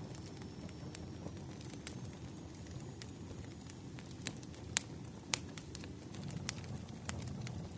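Campfire crackling: a steady low rumble of burning with scattered sharp pops, the loudest a little under five seconds in and again about half a second later.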